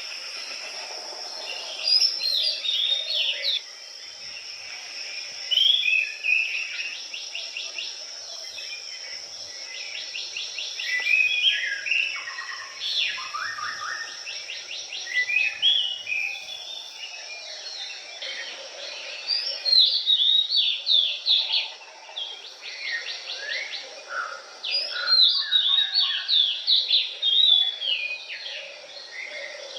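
Songbirds singing in the open: varied whistled phrases and rapid trills follow one another throughout, over a steady high-pitched tone.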